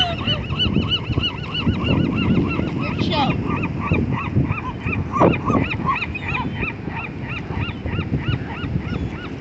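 A large flock of birds gathered at thrown food, calling constantly in short, arched cries that overlap at about three a second.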